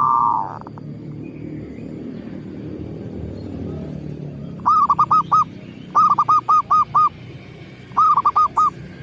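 Zebra dove (perkutut) cooing: three quick runs of short, hooked notes, about four, then six, then four, starting about halfway through, over a low steady rumble. A brief louder call sounds at the very start.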